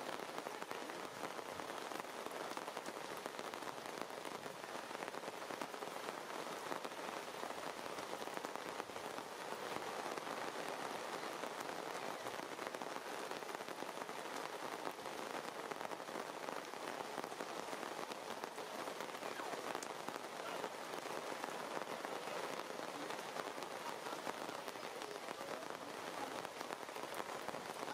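Steady rain falling, an even hiss made of many small drop hits.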